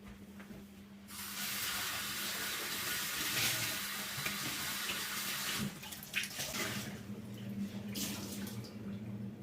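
Tap running into a sink, turned on about a second in. A few seconds later the flow breaks into short, uneven splashes.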